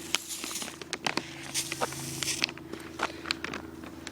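Footsteps and light knocks, with stretches of hissing spray from a shaken lemonade bottle that has split open under pressure.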